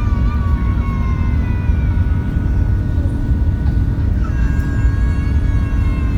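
Steady, loud low rumble of an Airbus A380 heard from inside its passenger cabin, with thin, wavering high tones drifting over it.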